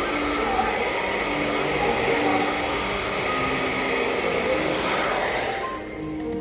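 A steady rushing noise over background music with held notes; the rushing stops shortly before the end.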